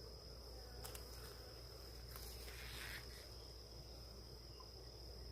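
Faint buzzing of honeybees at an open hive under a steady high-pitched insect trill, with a soft click about a second in and a brief rustle between two and three seconds in.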